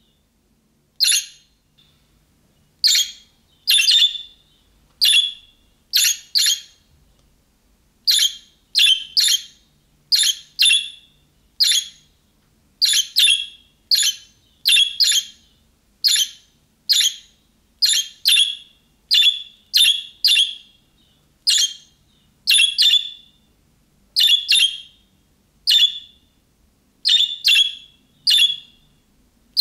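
Budgerigar calling: short, sharp chirps repeated about one to two a second, several coming in quick pairs, the calling-type calls that other budgies answer.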